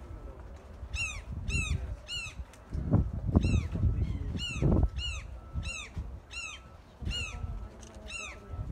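A bird calling over and over: high notes that each rise and then dip in pitch, coming every half to three-quarters of a second. Between about three and five seconds in there are a few louder low rumbles.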